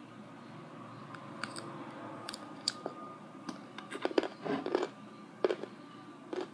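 Chewing on a crisp Claussen hot pickle: quiet, irregular wet crunches as he bites and chews, coming most thickly about four to five seconds in.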